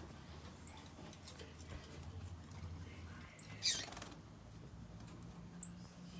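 Saffron finch giving a few short, high chirps, with one louder, noisier call about two-thirds of the way in that drops in pitch, over a faint low hum.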